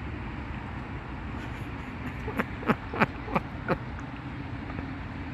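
Steady hum of distant traffic, with a quick run of about five short chirps, each falling steeply in pitch, in the middle.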